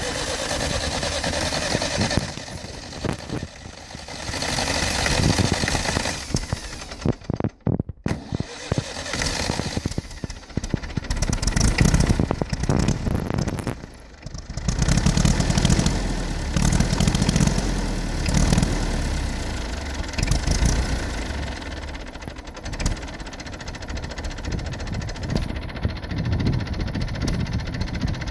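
Massey Ferguson 65 tractor engine running just after a cold start, unsteady at first with its speed surging and dropping, twice dipping briefly, then settling to a steadier idle over the last several seconds.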